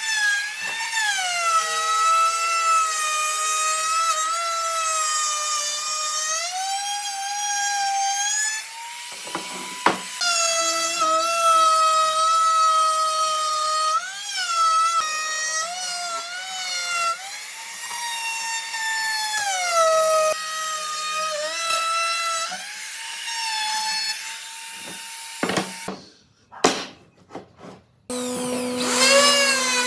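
A woodworking power tool's motor whines loudly, its pitch sagging and recovering again and again as it works the wood. Near the end the sound breaks off briefly, and then a steadier tool whine starts.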